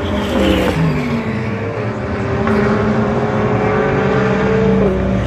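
GT race car engines running at speed on the circuit; the engine note drops in pitch about half a second in, holds steady, and drops again near the end as cars go by.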